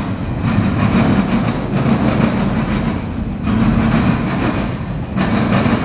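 Freight cars of a CSX mixed freight train rolling past: a steady, loud rumble and clatter of steel wheels on the rails, changing in tone every second and a half or so as car after car goes by.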